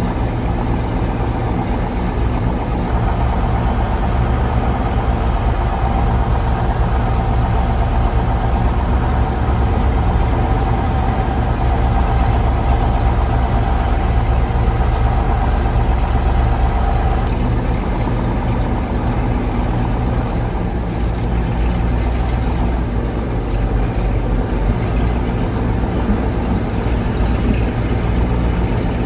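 Diesel V8 of a 1985 KAMAZ 4310 6x6 army truck running steadily. A steady higher tone joins about three seconds in and drops out a little past halfway.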